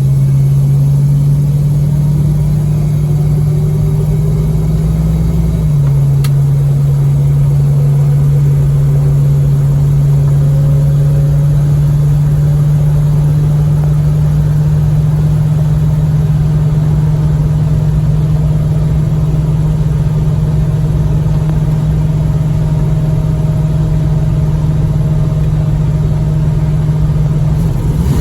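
1972 Plymouth Road Runner's 383 V8 running steadily under way, an even, loud drone with a slight shift in its note about six seconds in.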